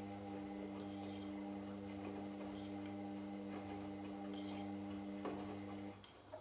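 Washing machine drum turning during the wash cycle: a steady motor hum that stops near the end, with a few light clicks scattered through.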